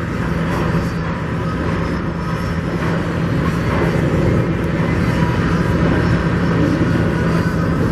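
Steady low engine drone with a constant hum, unbroken throughout.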